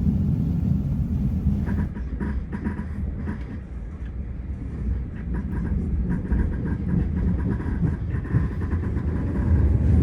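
Passenger train running along the track, a steady low rumble with faint light rattles.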